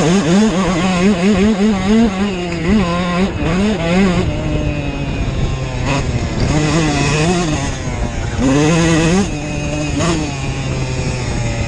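Dirt bike engine running hard, its pitch rising and falling over and over as the throttle is opened and closed, with a longer climb and drop about eight and a half seconds in.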